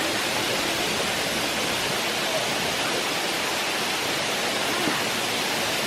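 Steady rush of falling or running water, an even hiss with no breaks.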